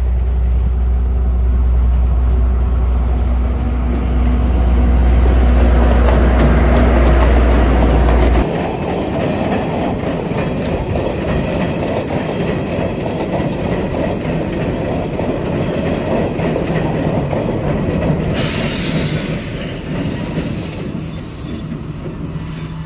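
A train passing close by: the locomotive's heavy low drone cuts off abruptly about eight seconds in, leaving the steady noise of the wagons running over the rails. About eighteen seconds in, a sudden higher-pitched hiss starts and fades.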